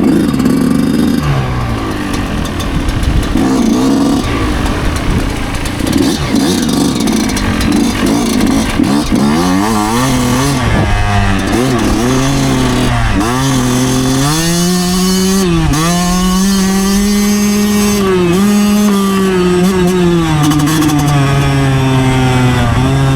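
2009 Yamaha YZ125 two-stroke single-cylinder dirt bike engine running under way, the revs dipping and climbing back again and again with throttle changes and gear shifts, then holding fairly steady near the end.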